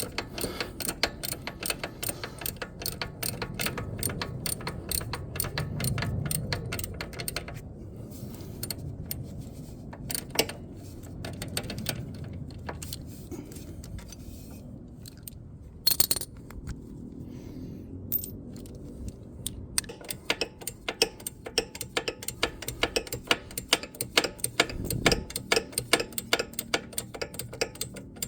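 Ratchet wrench clicking rapidly in long runs while bolts are loosened, with metallic tool and hardware clinks. There is a quieter spell in the middle with a few separate knocks.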